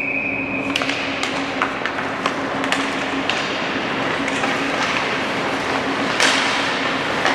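Scattered sharp taps and knocks of hockey sticks and a puck on the ice, over a steady arena hum, with a louder hit about six seconds in.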